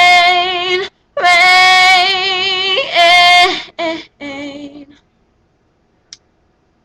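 A woman singing unaccompanied, holding long notes with vibrato over a few closing phrases. Her voice stops about five seconds in. A faint click follows about a second later.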